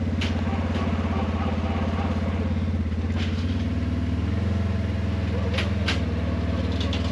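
Utility vehicle's engine running steadily under load, rising a little in pitch about halfway through, as it pushes a golf cart up onto a trailer, with a few sharp knocks.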